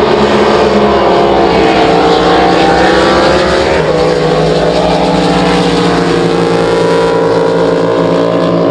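Drag boat engines running at full throttle through a run. The pitch climbs for the first few seconds, drops sharply about four seconds in, then holds steady.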